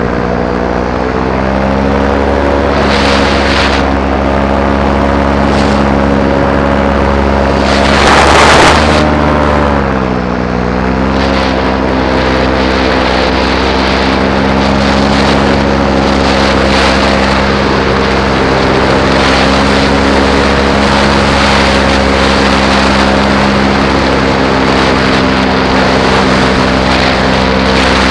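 Paramotor engine and propeller running steadily in flight, its pitch dipping briefly and coming back up twice, near the start and about ten seconds in, as the throttle is eased and reapplied. A short loud rush of noise cuts in about eight seconds in.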